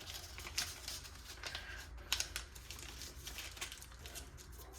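Origami paper being pinched, creased and flattened by hand: soft, irregular crinkling with a few sharper crackles.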